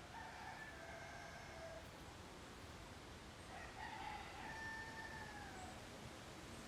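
A rooster crowing twice, each crow about two seconds long and faint, the second starting about three and a half seconds after the first.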